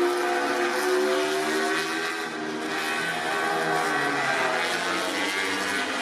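MotoGP race bike engines running, several at once, their pitch rising and falling.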